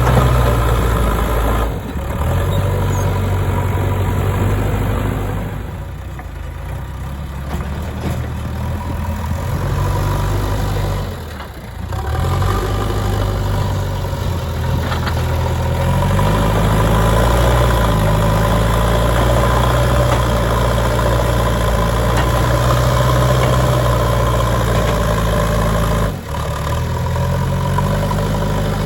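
JCB 3DX backhoe loader's diesel engine running under hydraulic load while it digs and loads mud. The engine revs up and drops back several times, and the sound breaks off briefly about three times.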